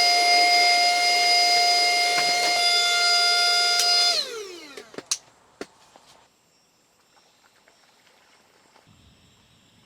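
Small electric motor tool running with a steady high whine, then switched off about four seconds in, its pitch falling as it winds down. A few sharp clicks follow.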